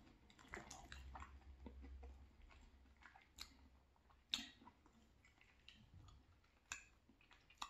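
Quiet chewing of a mouthful of cheesy penne pasta, with scattered short mouth clicks.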